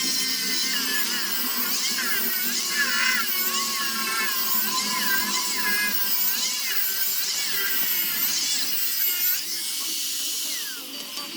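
High-speed rotary power tool whining as it cuts into wood, its pitch rising and falling with the load, then winding down near the end.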